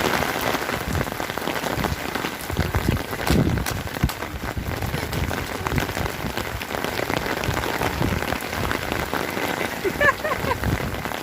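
Rain falling steadily, a dense patter of drops hitting the ground and nearby surfaces. Near the end a short high voice cuts through briefly.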